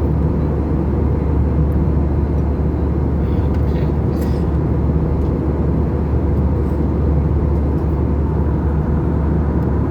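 Steady low drone inside the cabin of an Airbus A320 in flight, from its CFM56-5B engines and the airflow over the fuselage, heard from a window seat.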